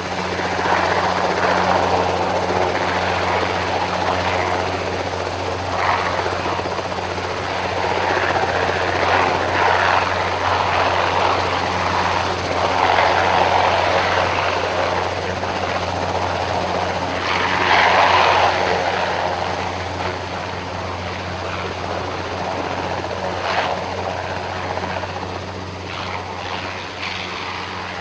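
Helicopter running close by: a steady low rotor hum with a rushing noise over it that swells and fades every few seconds, loudest about two-thirds of the way through.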